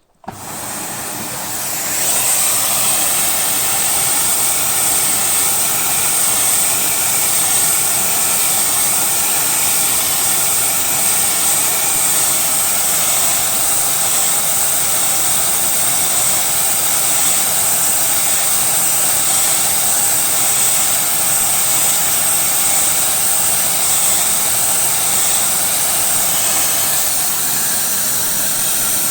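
Vacuum cleaner switched on, its motor spinning up over about two seconds and then running steadily with a high whine, used with a brush attachment to suck dust out of a dehumidifier's radiator fins.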